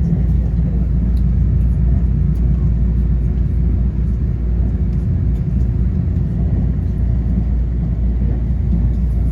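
EMU3000 electric train running, a steady low rumble with a faint steady hum and scattered light ticks.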